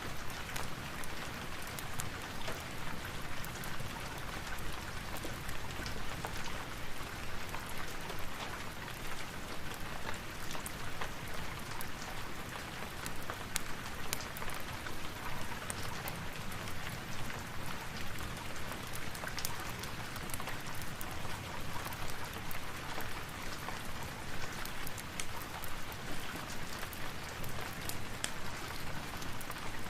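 Steady rain falling, dense and even, dotted with many small sharp clicks throughout.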